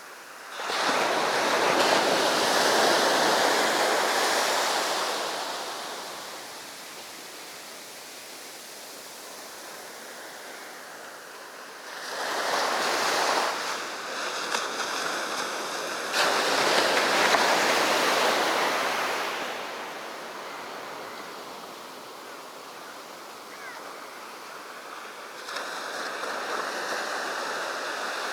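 Sea waves breaking on a beach and washing up the sand, swelling and fading in four surges with a quieter hiss of receding water between them.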